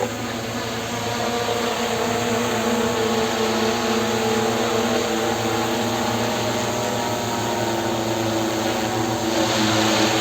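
A multirotor drone's propellers and motors running steadily with a buzzing hum whose pitch drifts slightly.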